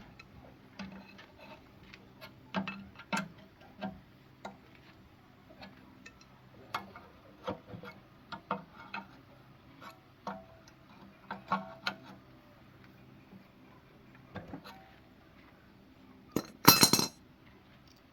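Metal tools and engine parts clinking and tapping at irregular intervals during diesel engine repair work, with a louder half-second noise near the end.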